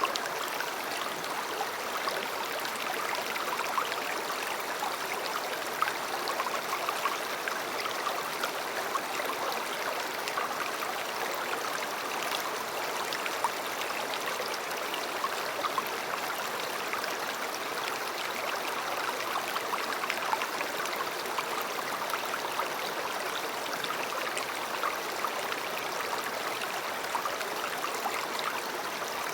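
A river flowing: a steady rush of water with many small splashes and trickles.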